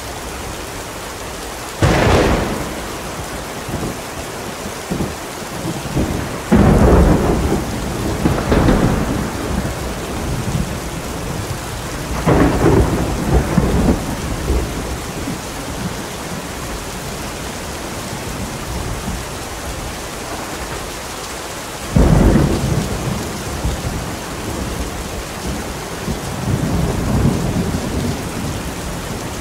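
Thunderstorm: steady heavy rain with repeated thunder. Sudden cracks come about 2 s in and again near 22 s, with rolling rumbles around 7–9 s and 12–14 s.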